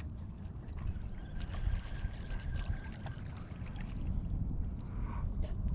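Water trickling and lapping against a kayak hull, over a steady low rumble, with a few small clicks and knocks.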